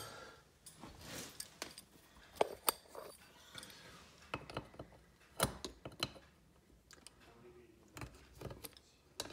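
Hand tool clicking and knocking against a dishwasher's underside parts as a screw is loosened to remove a piece, in irregular short clicks with a few louder knocks.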